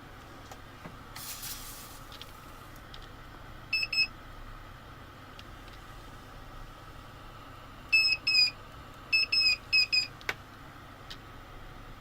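Short electronic beeps at one high pitch, in pairs and then a quick run of four, over a steady background hiss. A single click follows the last beep.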